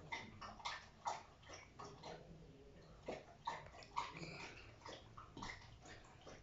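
A dog licking a person's face: quiet, irregular wet smacking and slurping licks, several a second.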